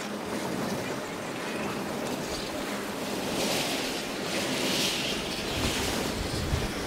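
Train rolling past: a steady rumble and rushing of wheels and cars on the rails, with a louder hiss in the middle.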